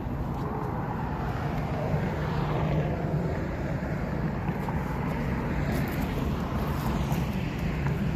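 An engine running with a steady low drone, its pitch sweeping slowly about two to three seconds in.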